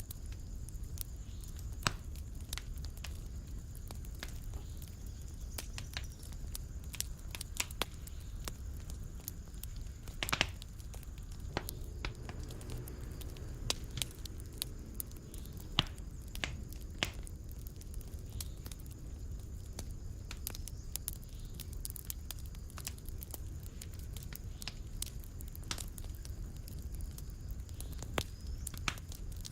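Wood fire crackling in a fireplace: irregular sharp snaps and pops over a low rumble of the flames, with one louder pop about ten seconds in.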